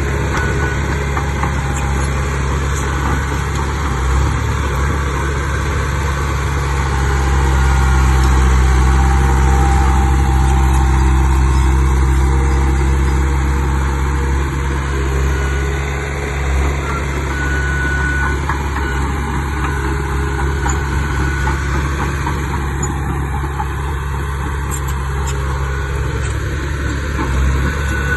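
Diesel engine of a Komatsu D31 bulldozer running steadily, growing louder for several seconds in the middle before settling back.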